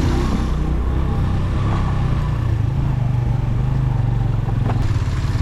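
Suzuki GS150 motorcycle's single-cylinder four-stroke engine running steadily with a constant low drone, and one sharp click about five seconds in.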